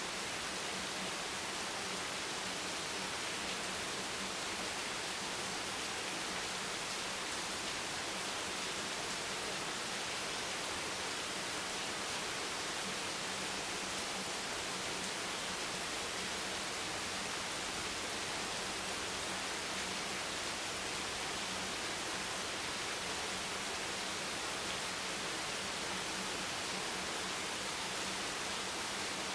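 Steady rain, an even hiss of noise with no single drops standing out and no change in level.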